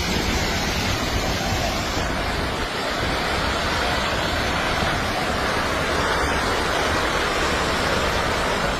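Landslide giving off a steady, dense rushing noise that sounds like a raging river.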